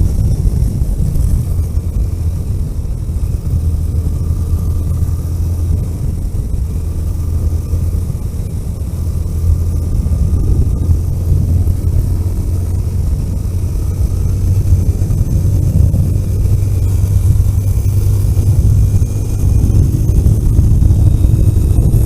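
Vehicle driving along a road: a steady low engine drone over road rumble, getting a little louder in the second half.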